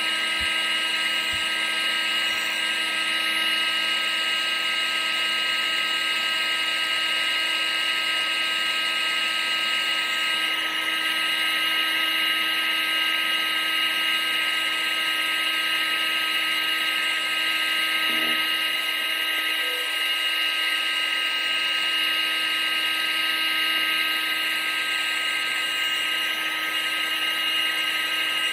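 Vacuum cleaner motor running steadily: a high whine of several steady tones over a constant hiss, without change.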